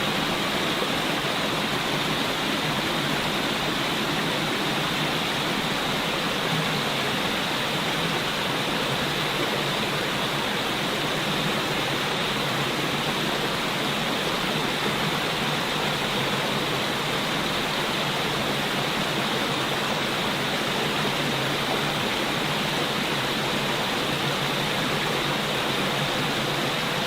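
Running water rushing steadily, an even noise with no swells or letting up.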